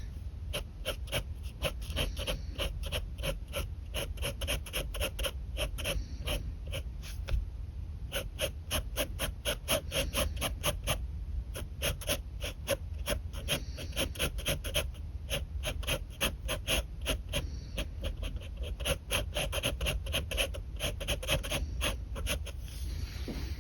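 Pen scratching on paper in quick repeated strokes, about five a second, with a couple of short pauses, over a steady low hum.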